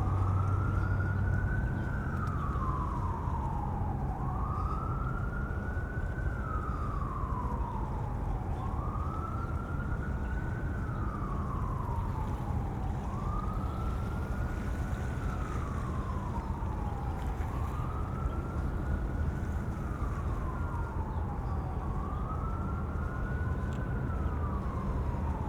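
Emergency vehicle siren on its wail setting, slowly rising and falling about once every four seconds, over a steady low rumble.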